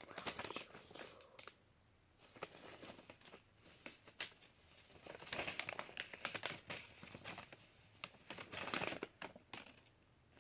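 A sheet of paper being folded and handled, with crinkling and rustling in irregular bursts and a few short quiet gaps.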